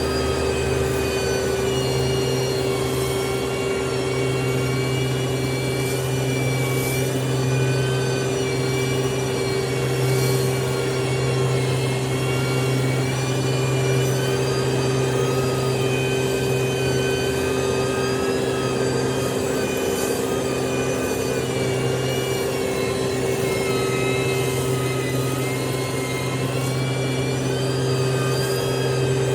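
Heavy road-construction machine's engine running steadily under load, with a constant deep hum and a high whine that rises and falls gently.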